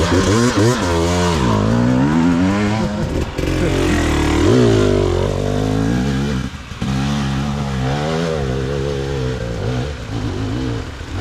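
Two-stroke enduro dirt bike engine revving up and down in quick throttle bursts, with a brief dip about six and a half seconds in.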